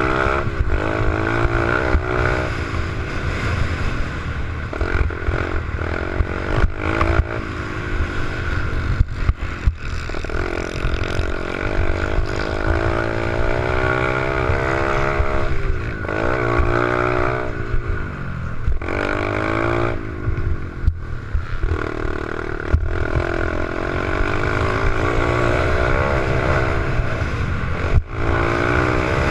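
Small 88cc pit bike engine being ridden, its pitch climbing and dropping again and again as the throttle is opened and closed, over a steady low rumble.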